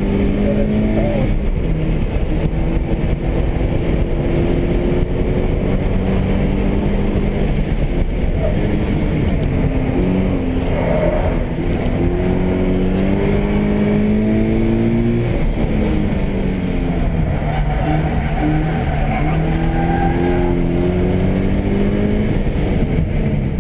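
Stock Subaru BRZ's 2.0-litre flat-four engine, heard from inside the cabin while being driven hard on a track. Its pitch climbs under throttle several times and then falls back, over steady wind and road noise.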